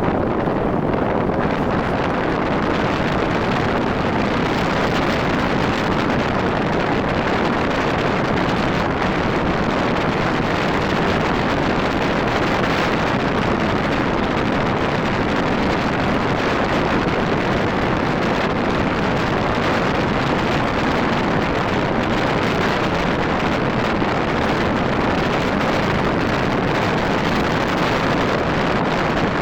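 Steady wind rush on the microphone of a moving Rusi RFI 175 motorcycle, mixed with its road and running noise, even throughout.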